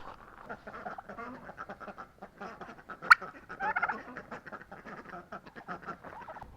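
Barnyard poultry calling in short scattered calls, with a single sharp click about three seconds in.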